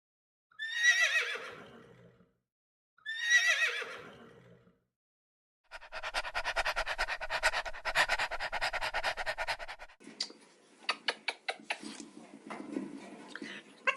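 A horse whinnying twice, each call starting high and falling away. These are followed by about four seconds of a fast, even rattle and then a run of scattered sharp knocks.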